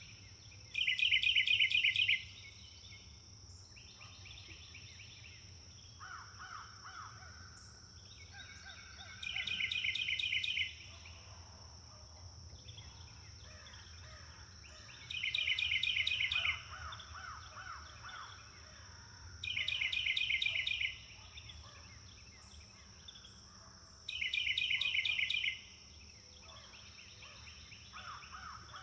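Forest birds singing: one bird repeats a loud, rapidly pulsed phrase about five times, with quieter calls from other birds in between. A steady high-pitched whine runs underneath.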